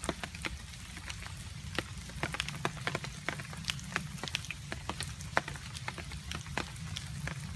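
Rain falling, with water drops dripping irregularly: many separate sharp taps of drops at uneven intervals over a steady low rumble.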